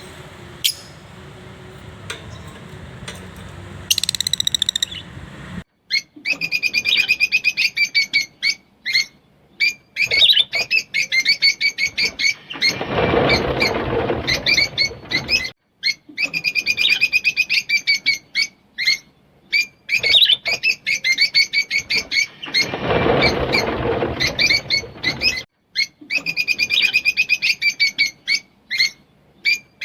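Rosy-faced lovebirds chattering in fast, high, rapid-fire chirp trains, starting about six seconds in after a quieter stretch with a single brief chirp. Twice the chirping is joined by a few seconds of rustling noise.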